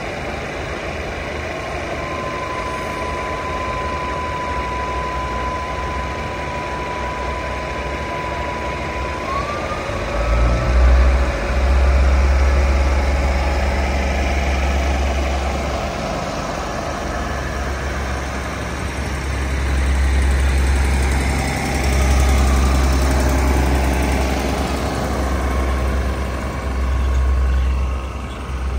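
Diesel railcar train rolling past along the platform, its wheels and running gear rumbling steadily. From about two seconds in, a thin high squeal holds steady for several seconds, then rises in pitch; about ten seconds in a deep engine drone comes up strongly and swells and eases through the rest.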